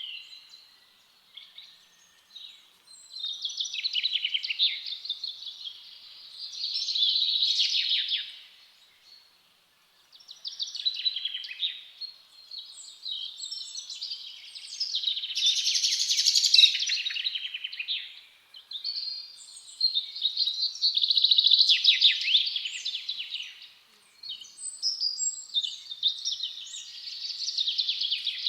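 Songbirds singing in a forest: bursts of rapid, high chirps and trills every few seconds, each phrase lasting a second or two, with short quiet gaps between.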